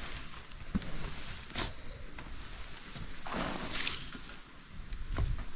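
Loose hay rustling and swishing as it is pulled and spread from a bale, with a few short knocks.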